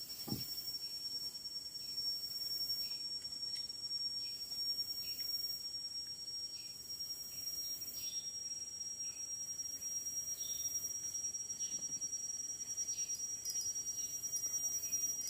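Forest insects calling in a steady, high-pitched drone, with faint short chirps now and then.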